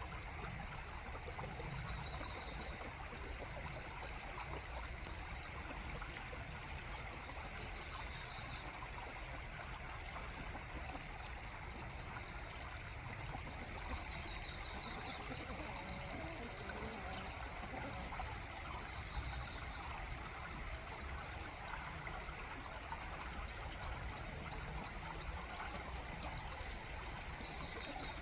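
Steady rushing of running water, like a stream, with a small bird's short, high trill repeating about every five to six seconds.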